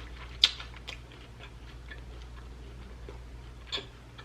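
Wet mouth clicks and lip smacks of someone eating sauced chicken wings close to the microphone: a sharp click about half a second in, another near the end, and fainter ones between.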